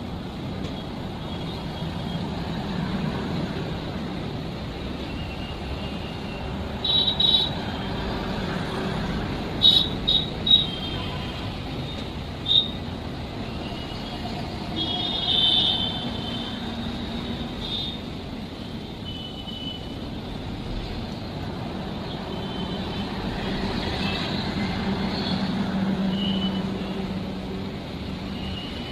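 Steady vehicle rumble with several short, high-pitched horn toots scattered through it, the loudest ones in the first half.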